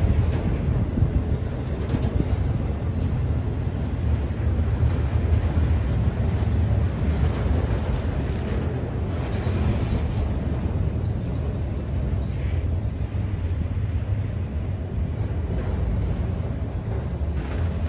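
Norfolk Southern freight train rolling past, a steady low rumble of its wheels on the rails.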